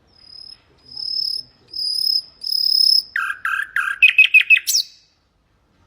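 Common nightingale singing one song phrase: four long whistled notes that grow louder, then a run of quick lower notes and a fast trill that ends in a sharp high sweep.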